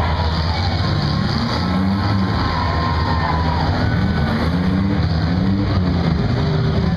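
Open-exhaust engines of several compact demolition-derby cars revving hard together, their pitch rising and falling over and over as the cars spin their tires and ram each other.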